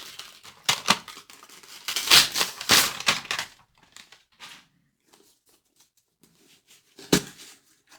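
Gift wrapping paper being torn and crinkled off a present, the loudest tearing about two to three seconds in, then it goes quiet apart from a single knock near the end.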